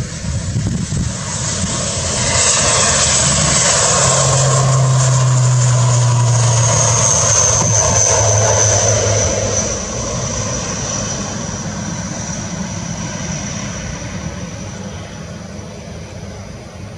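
ATR 72 turboprop airliner's twin propeller engines passing, growing louder about two seconds in, holding, then fading from about ten seconds in. A high whine drifts slightly down in pitch as it goes.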